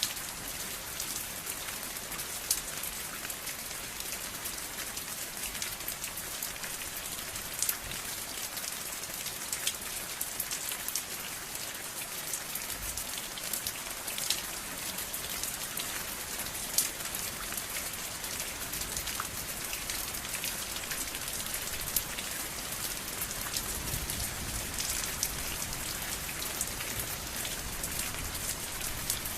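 Steady rain falling: an even hiss with many individual drops ticking on a surface, and a few louder drops standing out. A faint low rumble comes in near the end.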